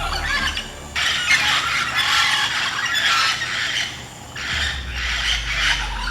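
Mealy parrots screeching and squawking harshly in two long bouts, the first from about a second in and the second from about four and a half seconds in: agitated calling of two pairs disputing the same nesting hole.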